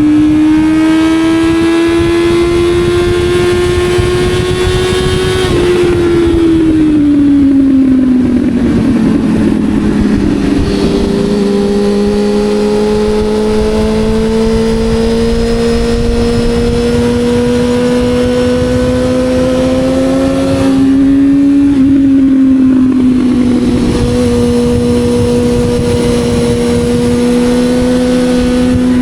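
Motorcycle engine running under way, its pitch climbing for about five seconds, then dropping over the next few seconds, then climbing slowly again before a small dip, after which it holds steady. A steady rushing noise sits underneath the engine.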